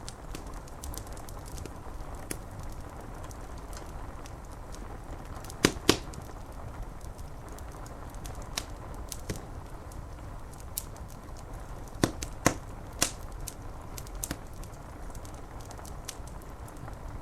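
Wood fire crackling with frequent sharp pops, a pair of loud ones about six seconds in and another cluster around twelve to thirteen seconds, over a steady hiss of rain against window glass.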